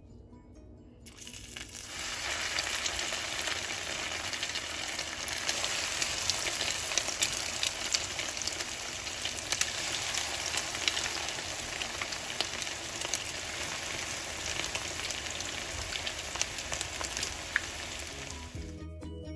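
Breaded city chicken skewers (cubed pork) frying in hot oil in a pan: a steady sizzle full of fine crackles. It starts about a second in and cuts off suddenly shortly before the end.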